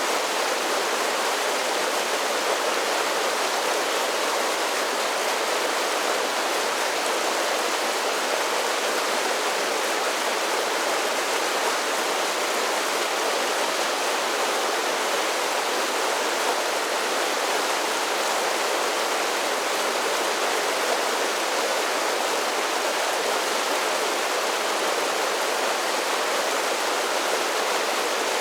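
Mountain creek cascading down a series of small falls: a steady rush of tumbling, splashing water with little low rumble, unchanging throughout.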